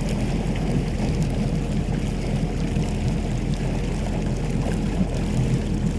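Boat motor running steadily with a constant low hum, over the wash of water.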